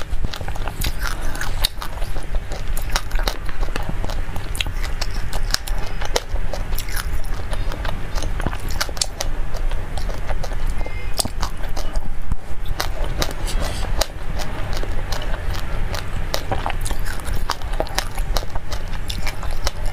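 Close-miked chewing of dry black sesame seeds mixed with passion fruit pulp: a dense, crackly run of small crunching clicks, over a steady low hum.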